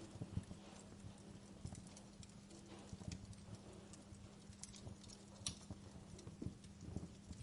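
Wood fire crackling in a fireplace: irregular small pops and snaps, some sharper than others, over a faint steady low hum.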